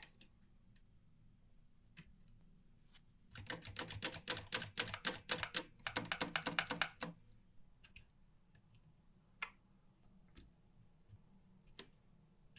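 1949 Olympia manual typewriter's keys and typebars striking in a quick run of sharp clacks lasting almost four seconds, followed by a few scattered light clicks.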